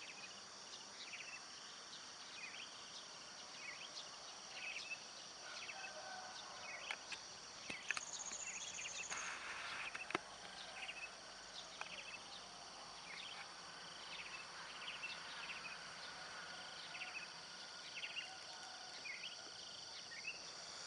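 A bird calling in repeated short chirps, a little more than one a second, over a steady high trill of crickets and other insects. A brief rush of noise breaks in about nine seconds in.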